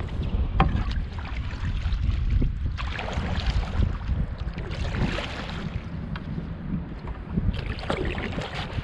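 Canoe paddle strokes splashing through the water every couple of seconds, under steady wind buffeting the microphone.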